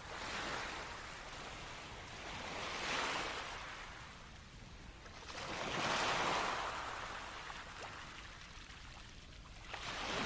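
Small sea waves breaking and washing up a beach, a rushing hiss that swells and fades about every three seconds.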